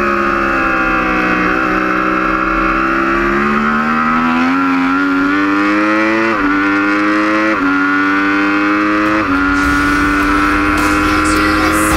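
Yamaha R1 superbike's inline-four engine heard from on board: the engine note sags slightly through a corner, then climbs hard under full acceleration. Three quick upshifts each drop the pitch. Wind rush builds near the end as speed rises.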